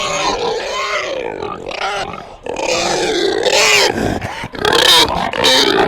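Animal calls, loud and continuous, turning harsher and noisier in the second half.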